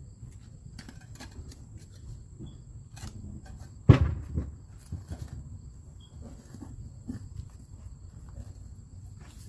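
Shovel work in dirt: small scrapes and knocks, with one loud thump about four seconds in and a smaller one just after. Crickets chirp steadily in the background.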